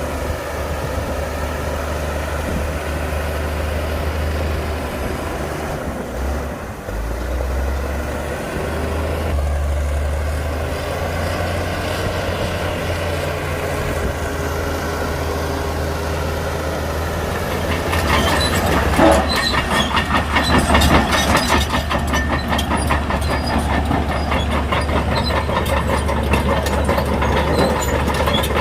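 Heavy diesel engine of a crawler bulldozer running with a steady low rumble. About two-thirds of the way in, a rapid metallic clatter starts and keeps going: the steel tracks rattling as the machine moves.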